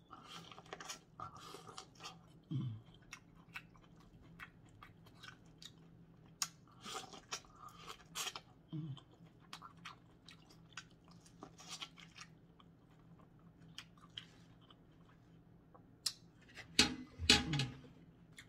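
Biting and chewing boiled corn on the cob: irregular soft crunches and wet mouth clicks as kernels are bitten off, with a louder burst of sound near the end.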